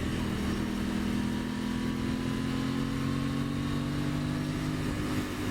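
Aprilia Tuono 660's parallel-twin engine running under way, its note falling slowly, then stepping down lower about five seconds in.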